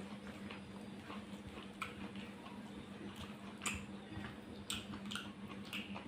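Close-up chewing and lip-smacking of someone eating rice and curry: scattered wet mouth clicks, a few sharper ones in the second half, over a steady low hum.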